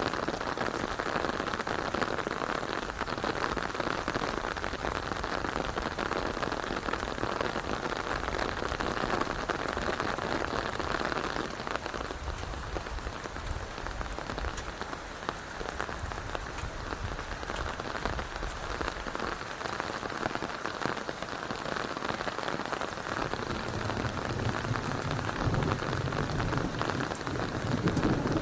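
Steady rain falling, with wind gusting on the microphone in low rumbling stretches, strongest near the end.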